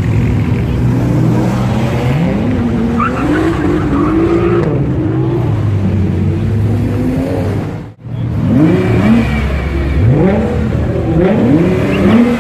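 Turbocharged Nissan sports car engine idling and being revved in stationary blips, its pitch climbing and falling back. After a brief sudden break about eight seconds in, there are three quick sharp revs in a row.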